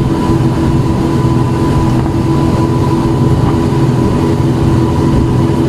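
Speedboat engine running steadily under way, a loud drone that holds one pitch.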